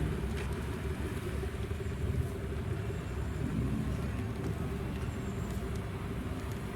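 A car engine running steadily at idle: a low, even rumble with a constant hum, no revving.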